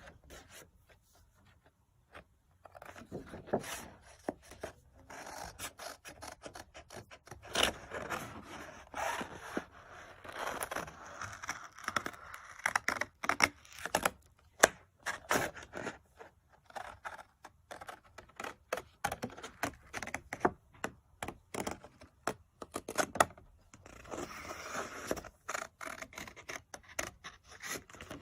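Scissors cutting out a paper circle: a long run of quick snips with the paper scraping and rustling against the blades, starting about two seconds in.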